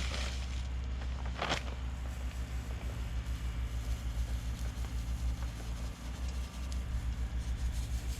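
An engine running steadily with a low, evenly pulsing hum, with two brief sharp noises about a second apart near the start.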